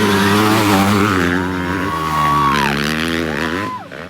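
Motocross bikes racing past, their engines revving up and down through the gears, with more than one engine pitch heard at once. The sound fades sharply near the end.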